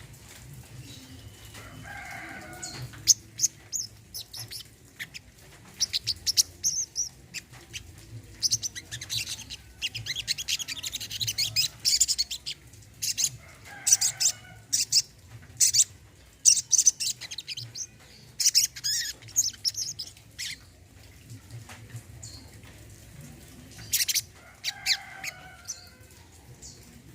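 Brown-throated sunbird calling in repeated bursts of sharp, high chirps and quick trills, busiest in the middle. A lower call sounds three times, about two seconds in, in the middle and near the end.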